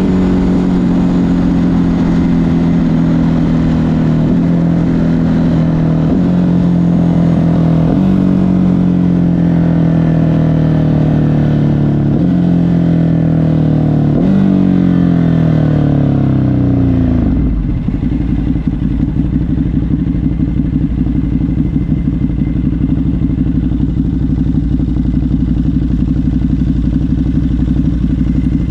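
Ducati Hypermotard 950 SP's 937 cc L-twin through an SC Project exhaust, slowing on engine braking with several downshift blips that bump the revs back up. About two-thirds of the way through, the revs fall away and the engine settles into a lumpy, rhythmic idle.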